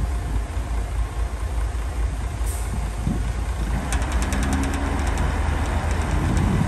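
Heavy diesel earthmoving machinery running with a deep, steady rumble. About four seconds in, the engine note grows fuller and a quick run of rattling clicks lasts a couple of seconds.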